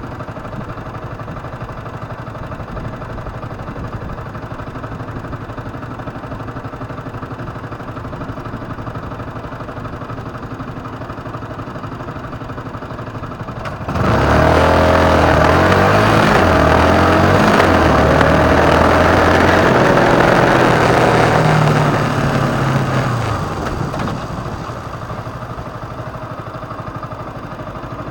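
Motorcycle engine running steadily at low speed. About halfway through it is suddenly opened up and runs much louder for about eight seconds, its note changing in steps, then it eases back to the earlier steady running.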